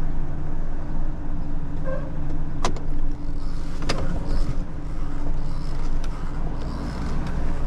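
Tow truck engine running steadily as the truck maneuvers slowly on a gravel driveway, with two sharp clicks a little over a second apart near the middle.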